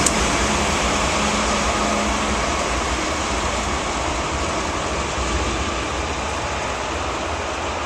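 A train rolling by, with a steady rumble and rail noise that slowly fades.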